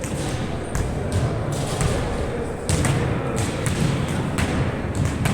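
Irregular thuds and knocks from a ball game in play, with a murmur of voices underneath.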